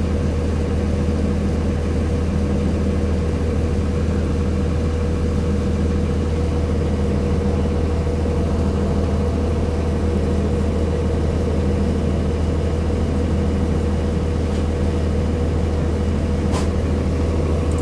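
The Cummins ISC inline-six diesel of a 2002 Blue Bird CS transit bus running steadily, a deep hum with a steady whine over it and no change in pitch. A brief click about sixteen and a half seconds in.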